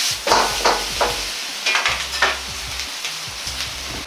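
Bacon, wood ear mushrooms and egg sizzling in a hot wok as they are stirred together. Four or five louder stirring strokes come in the first couple of seconds, then the sizzle eases.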